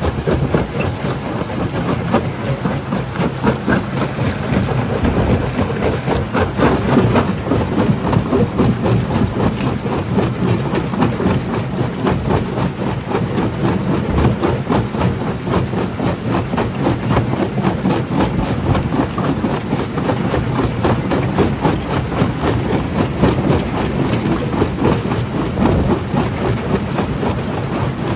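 A primary jaw crusher running and crushing rock: a continuous heavy rumble with a dense, uneven clatter of stone knocking and breaking.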